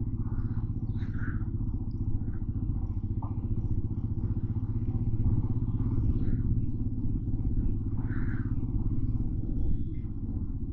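Motorcycle engine running at low road speed in traffic, a steady low drone that picks up slightly midway and eases off near the end.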